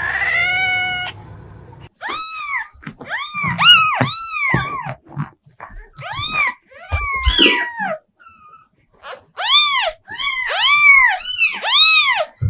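A cat meowing over and over: a drawn-out rising meow at the start, then runs of short meows, each rising and falling in pitch, with a brief pause about two-thirds of the way through.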